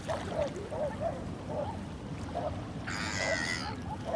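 Gulls calling: short soft calls come again and again, and one loud harsh call sounds about three seconds in, over a steady low rumble.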